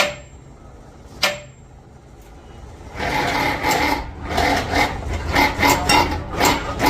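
Two sharp metal hammer blows on steel track-chain parts, about a second apart, each ringing briefly. About three seconds in, a busier stretch of choppy workshop sound begins.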